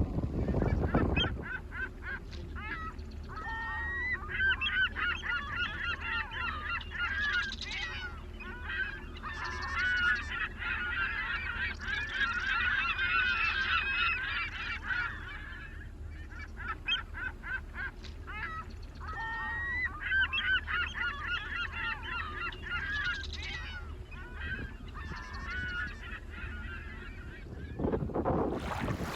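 A flock of geese honking, many calls overlapping in long bouts with a short lull about halfway through, over a steady low hum.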